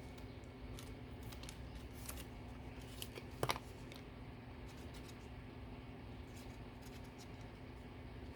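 Faint handling of paper and craft tools at a desk: scattered light clicks and rustles, with a sharper double click about three and a half seconds in, over a steady low hum.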